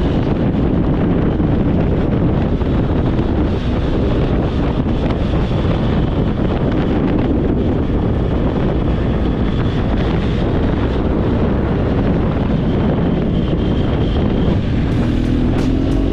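Motorcycle riding at speed: heavy, steady wind rush on the microphone over the engine.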